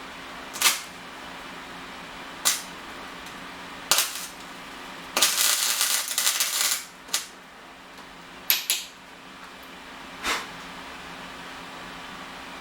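Small metal parts and tools being handled on a workbench: a string of sharp clinks and knocks a second or two apart, with a rapid run of clattering near the middle.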